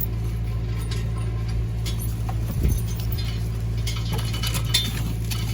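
Engine idling steadily, with a few light metallic clinks of log chain being handled.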